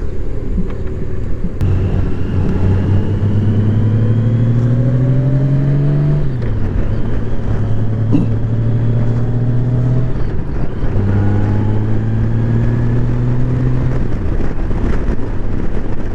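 Honda Gold Wing motorcycle's flat-six engine accelerating through the gears: the engine note climbs, drops sharply at a shift about six seconds in, holds steady, then climbs again and drops at another shift near the end.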